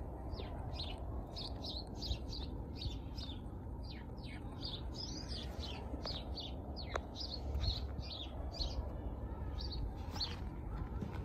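Small birds chirping: a quick string of short, high chirps, a few a second, over a steady low rumble.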